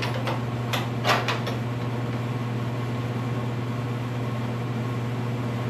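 A steady low mechanical hum, like a fan or air-conditioning unit running, with a few short clicks and knocks in the first second and a half.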